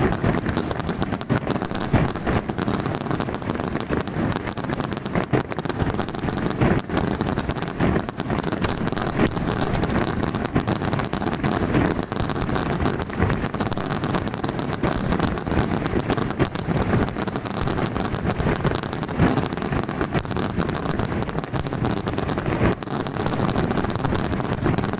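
Aerial fireworks going off in a dense, unbroken barrage of rapid bangs and crackling.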